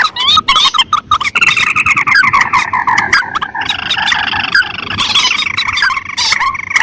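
Rice-field rail and crake calls (mandar and tikusan) from a bird-lure recording. Quick repeated calls are followed, a little over a second in, by a long chattering series that slowly falls in pitch, with other calls overlapping it.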